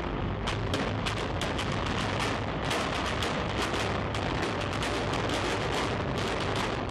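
Building-implosion demolition charges detonating in a rapid, irregular string of sharp cracks, several a second, over a continuous rumble.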